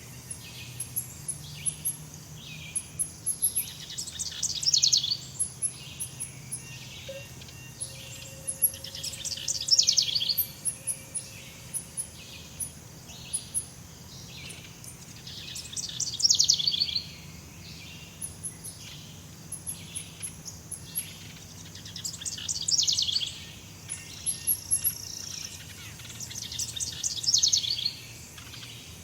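Jungle ambience of birds calling: a steady run of short chirps, and a louder, fast trilled phrase that comes back about every six seconds, over faint high insect ticking.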